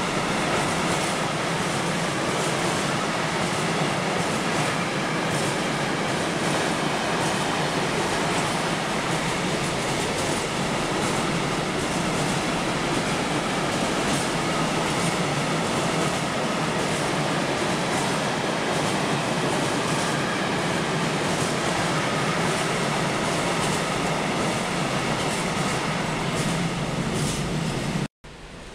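A train running past on the tracks: a steady rumble and rush of wheels on rails with faint regular clicking, cut off abruptly near the end.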